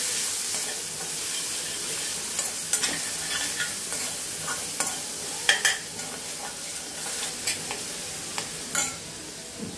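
Ginger-garlic paste with cumin seeds and green chillies sizzling steadily in hot oil in a stainless steel kadai, being sautéd. A perforated metal slotted spoon stirs it, scraping and clinking against the pan several times.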